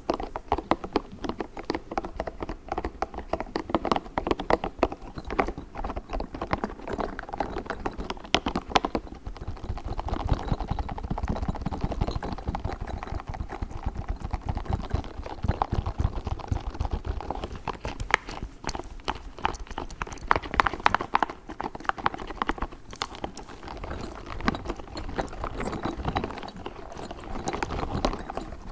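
Pink spiky ball handled close to the microphone: a dense, fast run of taps, clicks and squishes, with heavier low handling sounds through the middle.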